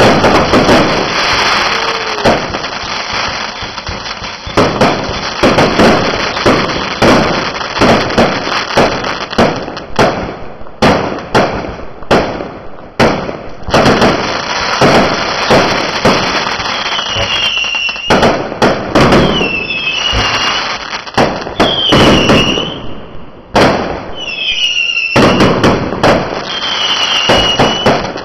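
Fireworks going off in rapid succession, a near-continuous string of bangs and crackles. In the second half, short whistles rise and fall in pitch between the bangs.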